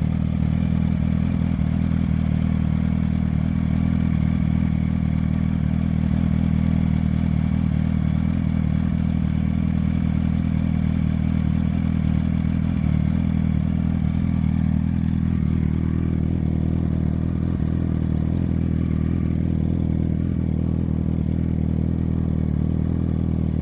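2008 Yamaha R1's inline-four engine idling steadily through a Graves low-mount aftermarket exhaust.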